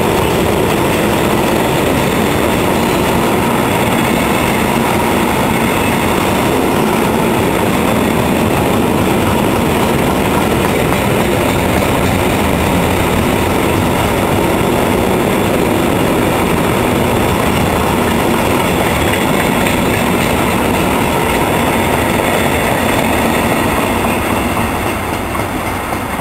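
Freight train's wagons rolling past on the next track, a loud steady noise of steel wheels on rail. It dies away over the last couple of seconds as the end of the train passes.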